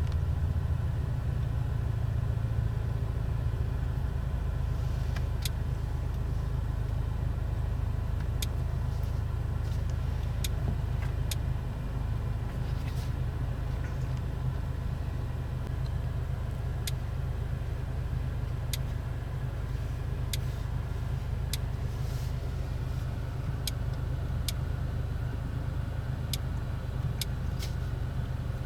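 A 2024 Audi S3 Sportback's 2.0-litre turbo four-cylinder and its road noise make a steady low rumble at constant speed, with no revving. Sharp ticks come now and then.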